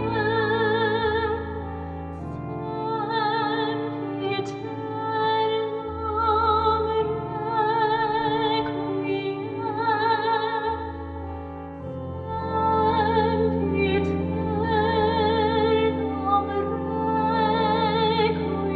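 A woman singing solo in a classical, operatic style with wide vibrato, in long phrases over held keyboard chords.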